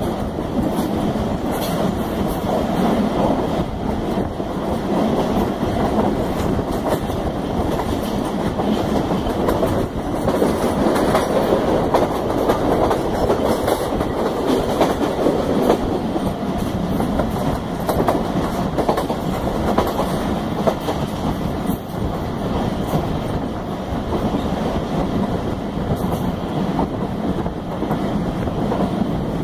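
Passenger train running at speed, heard from inside a carriage: a steady rumble of wheels on the rails.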